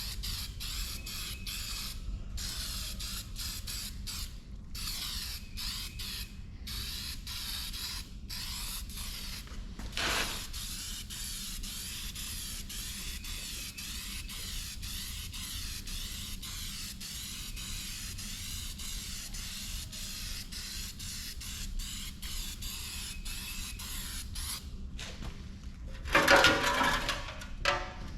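Aerosol spray can hissing in bursts with short pauses, putting a coat of paint on a part. A louder clatter comes near the end.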